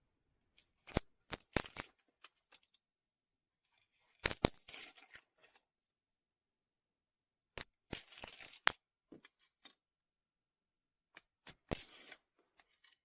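Matches struck against a matchbox, four short rasping strikes a few seconds apart, each with a brief fizz as it catches.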